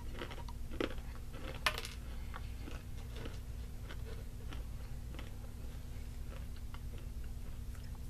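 A person chewing a mouthful of crunchy granola: small irregular crunches, with a sharper click about a second and a half in. A low steady hum runs underneath.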